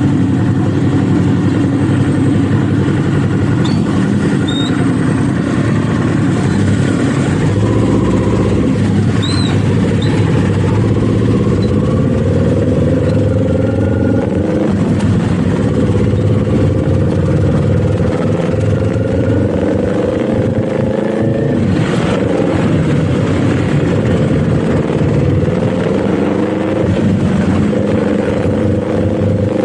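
Kawasaki Z400 parallel-twin engine riding under way and pulling through the gears. The pitch holds steady at first, then climbs from about eight seconds in. It drops back at upshifts about halfway, at about three quarters and near the end.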